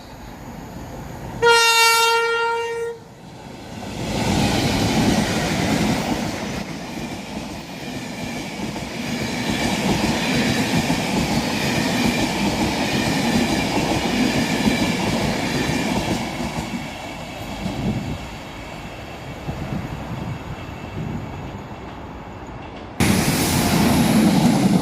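A passing train sounds its horn once, a single steady note for about a second and a half. It then runs past close by with a loud rumble, rail clatter and a high whine that slowly fades. Near the end a second loud rush of train noise comes in suddenly.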